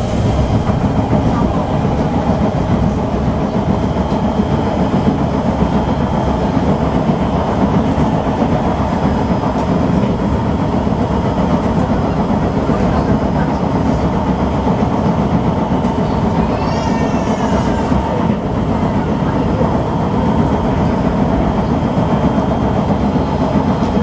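Kawasaki C151 MRT train running at speed, heard from inside the car: a loud, steady rumble with rapid repeated pounding from severe wheel flats. A brief falling squeal comes about two-thirds of the way through.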